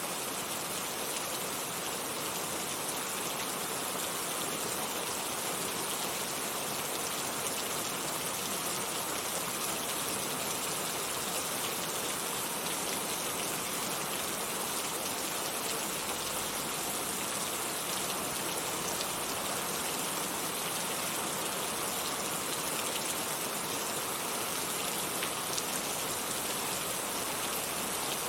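Heavy rain falling steadily, a dense even hiss of drops with no thunder or other events.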